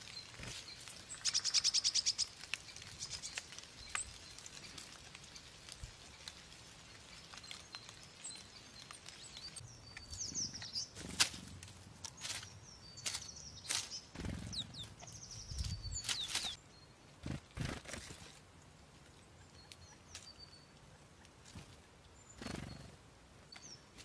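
Small woodland birds calling: a fast, high trill about a second in, then a run of short, high, falling chirps about halfway through. Sharp clicks and low rustles and knocks in dry leaves come with the chirps.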